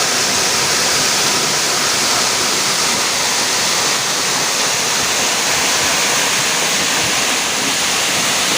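Waterfall rushing loudly and steadily.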